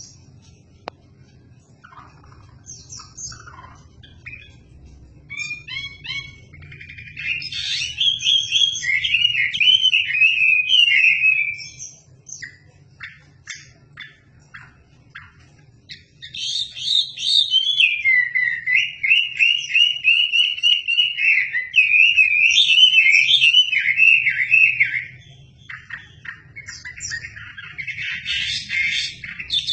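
A wambi songbird singing, used as master song for magpie-robins: long bursts of rapid whistled warbling with quick trills, broken by short scattered notes and pauses, one about 11 s in and another about 25 s in, before it starts up again.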